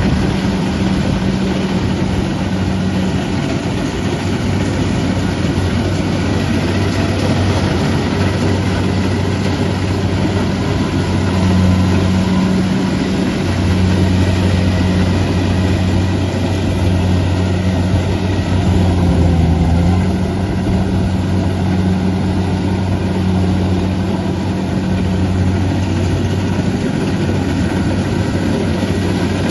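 Kubota DC-70 Plus rice combine harvester running under load, its diesel engine humming steadily under a dense mechanical din. The engine note swells slightly a few times.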